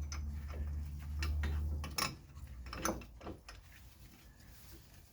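Loose steel parts (a bolt, washer and press adapter) being handled and fitted together, clinking and scraping, with a few sharp metallic clicks between about two and three and a half seconds in, after a low rumble that stops about two seconds in.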